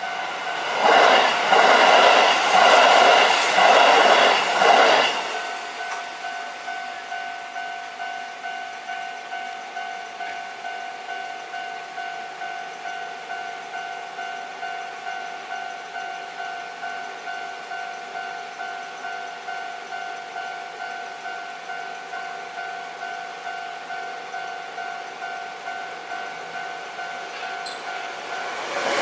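Sanyo Electric Railway 6000-series train passing over a level crossing, loud for about four seconds with wheels clattering over the rails, then gone. The crossing's warning alarm rings on in a steady, quick rhythm because the next train is still approaching.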